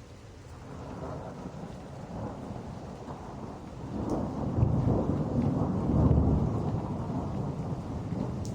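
Rolling thunder over steady rain: a low rumble builds from about a second in, is loudest a little past the middle, then eases off.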